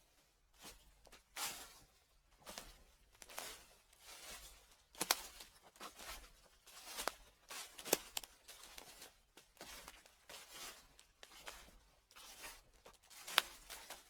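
Slow footsteps crunching through dry fallen leaves, about one step a second, with a few sharper crackles near the middle and near the end.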